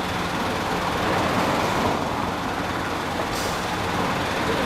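Steady vehicle engine and traffic noise, with a brief sharp click about three seconds in.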